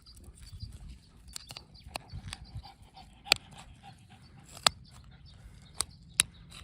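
Dogs scuffling about, with four sharp clicks in the second half.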